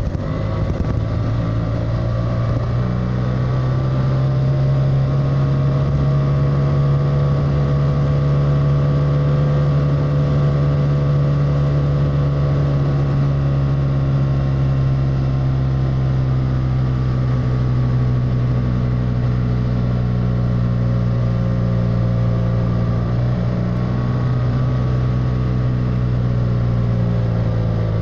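BMW F800R's 798 cc parallel-twin engine running under way at a steady, moderate pace. A brief dip in level comes just after the start, then the note drifts slowly up and eases back down.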